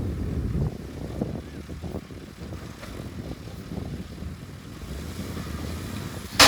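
Heavy diesel earthmoving machinery running with a low rumble that is louder in the first second, then steady. There is a sharp click near the end.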